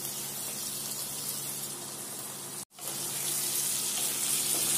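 Potato chunks frying in hot oil in a kadai, a steady sizzle. The sound cuts out for an instant a little past halfway, then comes back louder as the potatoes are stirred with a wooden spatula.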